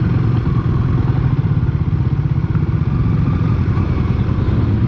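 Single-cylinder motorcycle engine running steadily at low speed, a fast low pulsing with no change in pace.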